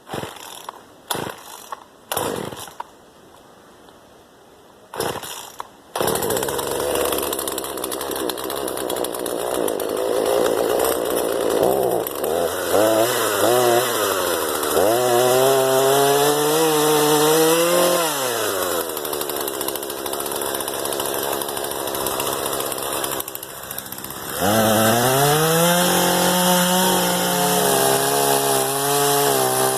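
Hoteche chainsaw: a few brief knocks in the first seconds, then from about six seconds in it runs continuously, its pitch climbing and sinking as it is revved and worked. It dips briefly a little past twenty-three seconds, then revs up high again.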